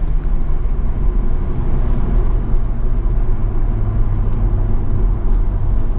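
BMW M140i's turbocharged straight-six with the M Performance exhaust, heard from inside the cabin at steady cruising revs: a steady low exhaust drone under road and wind noise.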